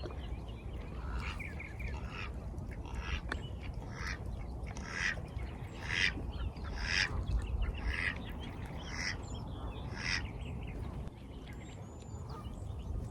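Duck quacking, a short call about once a second, stopping near the end, over a steady low rumble.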